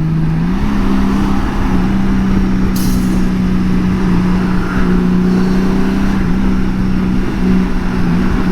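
2018 Honda Gold Wing's flat-six engine running steadily under way, its pitch stepping up slightly about half a second in and then holding, over wind and road noise. A brief hiss about three seconds in.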